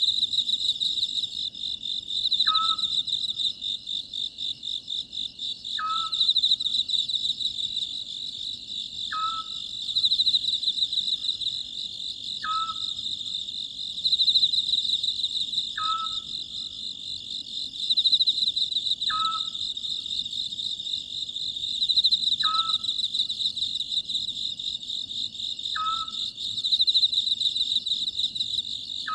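Scops owl calling, a short single note repeated about every three seconds, over a steady, pulsing chorus of crickets.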